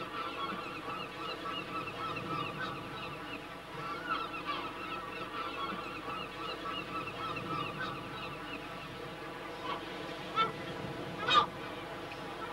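A flock of birds calling, many short calls overlapping without a break, with two louder single calls near the end.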